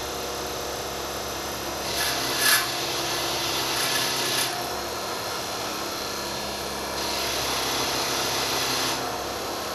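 Motor-driven wire wheel running with a steady hum while a scissor blade is pressed against it twice, about two seconds in and again about seven seconds in, each pass a harsh scratching hiss lasting two to three seconds as the wire strips rust from the steel.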